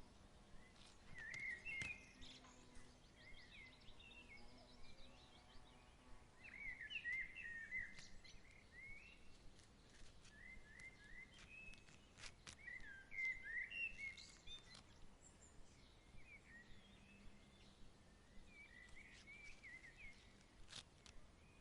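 Small birds chirping: clusters of quick up-and-down notes every few seconds over a faint steady hiss, with a few scattered sharp ticks.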